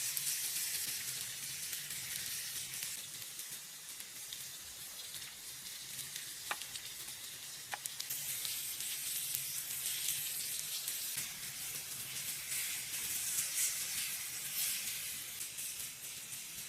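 Food sizzling as it fries: a steady hiss with scattered small crackles.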